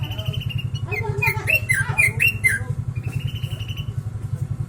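Yellow-vented bulbul (trucukan) singing sooty-headed bulbul (kutilang) phrases: a held whistle, then a quick run of rising-and-falling chirps, then another held whistle. A steady low rhythmic throb runs underneath.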